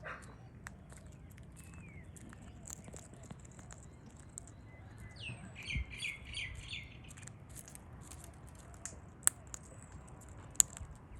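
Birds calling: scattered high chirps throughout, and a quick run of about six short rising calls around the middle. Two sharp clicks stand out near the end.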